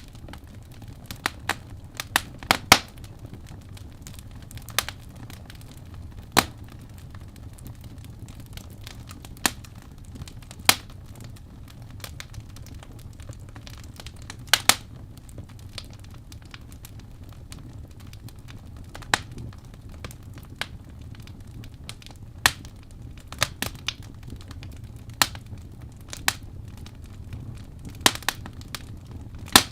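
Wood fire burning in a fireplace, the logs crackling with irregular sharp pops, several a few seconds apart and some in quick pairs, over a low steady rumble of the flames.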